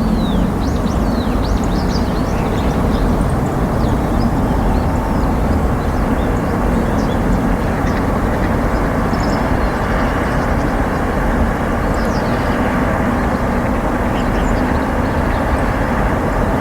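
Steady, loud outdoor rumble, with thin, high chirps of small birds over it, most of them in the first few seconds.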